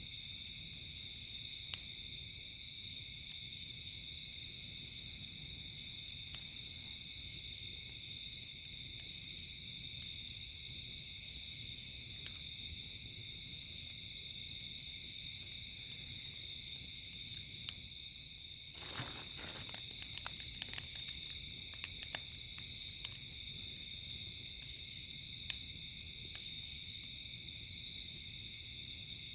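Steady chirring of night insects such as crickets, with a higher buzz that swells and fades every few seconds. In the second half a few sharp pops and crackles from a campfire come through, with a short rush of noise among them.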